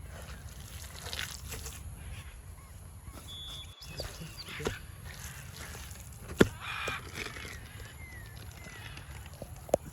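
Birds calling now and then against a rural background, with scattered light clicks and one sharp knock about six and a half seconds in.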